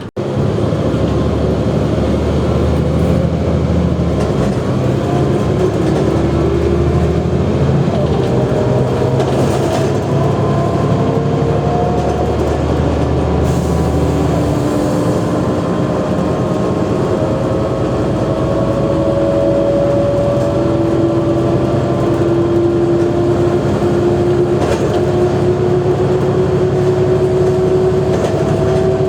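Mercedes-Benz O345G articulated bus under way: its diesel engine drones low while a whine climbs slowly and steadily in pitch as the bus gathers speed. The engine note changes about halfway through.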